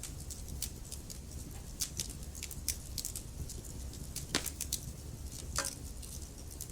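Burning logs crackling in a fireplace: a steady low rumble of flame under frequent, irregular sharp pops and snaps, with two louder pops in the second half.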